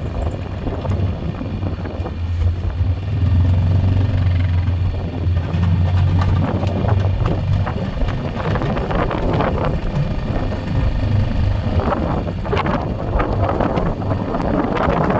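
Four-wheeler (ATV) engine running steadily with a low hum. About halfway through the hum becomes less steady, and rougher bursts of noise come in near the end.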